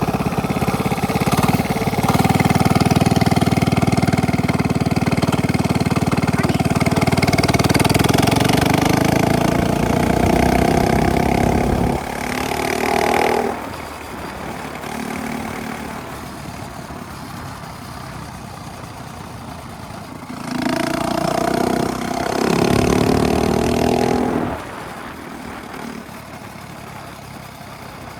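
A minibike's small engine with a straight-pipe exhaust: it runs loud and close for the first dozen seconds, then drops back quieter. It rises in two short revving bursts, about halfway in and again near three quarters through.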